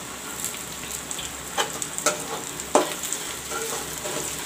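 Sliced onions sizzling steadily in hot mustard oil in a kadai, with a spatula scraping and tapping against the pan several times as salt is stirred in.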